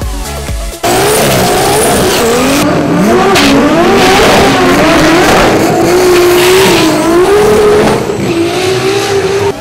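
Drag racing car engine revving hard, its pitch wavering up and down. It cuts in suddenly about a second in, after a moment of dance music, and drops away near the end.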